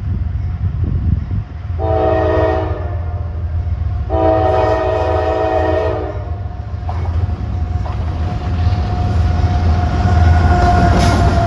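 Freight locomotive air horn sounding two blasts, a short one about two seconds in and a longer one about four seconds in, over the steady low rumble of the passing train's diesel engine and wheels.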